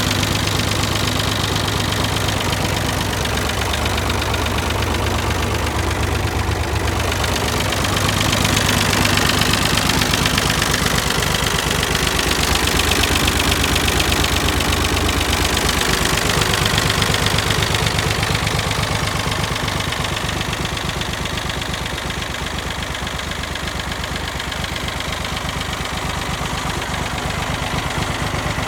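David Brown 885 tractor's three-cylinder diesel engine running, with a fine even firing beat; its note shifts a couple of times, about a quarter and again halfway through.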